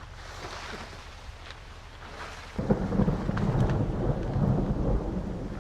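A faint hiss, then about two and a half seconds in a sudden loud, low rumble that keeps going.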